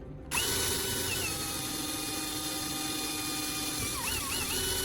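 Electric drill running and boring a small hole through a plastic CD: a steady high motor whine that starts a moment in, its pitch dipping briefly as the bit bites.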